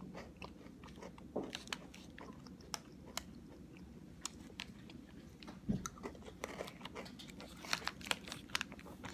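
Close-up chewing and biting of a crunchy Pocky Almond Crush stick, a chocolate-and-almond-coated biscuit stick, giving irregular small crunches with a denser run near the end. One dull thump comes a little past the middle.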